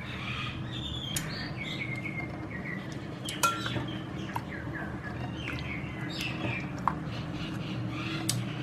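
Small birds chirping again and again in short, falling chirps over a steady low hum, with a couple of sharp clicks.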